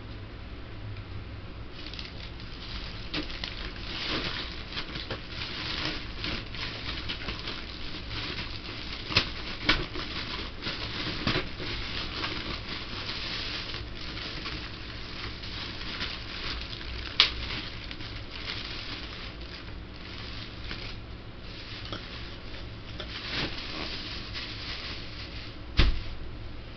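Steady rustling and crackling, like material being handled, with a few sharp knocks spread through it.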